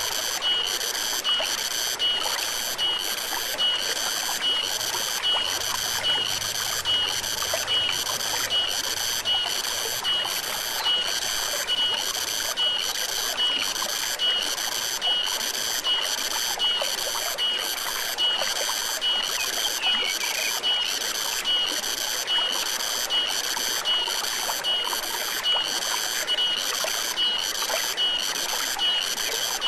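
Stream water running steadily under a high, buzzing animal call that repeats in even pulses, a little more than one a second.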